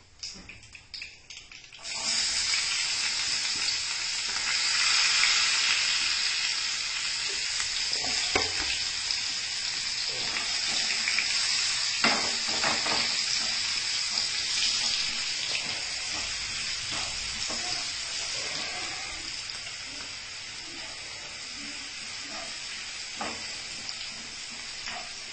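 Food sizzling loudly in hot oil in a frying pan, as for an Indian tempering of spices. The sizzle starts suddenly about two seconds in, as something goes into the pan, and slowly dies down, with a few knocks and scrapes as the pan is stirred.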